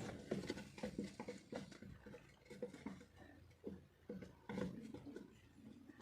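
Puppies with their mother dog: a faint, irregular patter of small clicks and brief soft squeaks.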